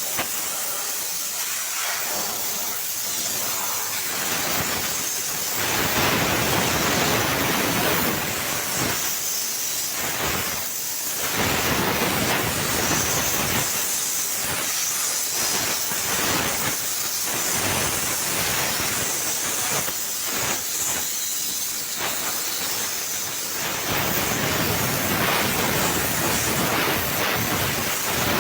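Steam cleaner's jet hissing as it washes an engine, the hiss fuller and thinner by turns.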